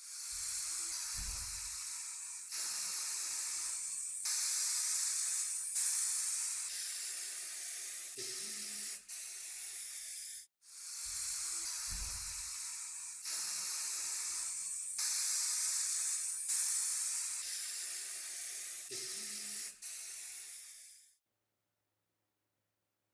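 A steady spraying hiss, high and airy, coming in stretches that step up and down in loudness. It drops out briefly about halfway through, picks up again, and cuts off suddenly near the end.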